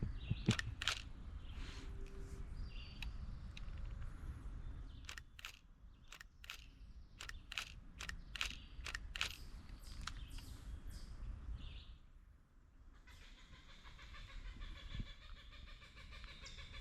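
An unfamiliar bird calling in a rapid, busy, repeated pattern over the last few seconds. Before it comes a run of sharp taps or footsteps on the trail.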